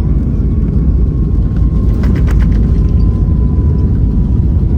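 Deep, steady rumble inside a Jetstar jet airliner's cabin as it rolls along the ground after landing, with a faint steady whine and a brief rattle about two seconds in.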